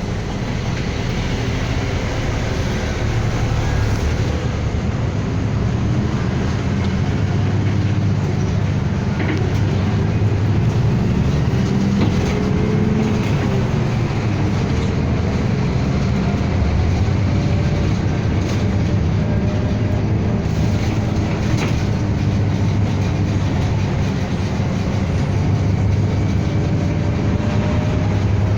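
Cabin noise of a city bus on the move: a steady low engine and road rumble. A faint whine rises and falls about twelve seconds in.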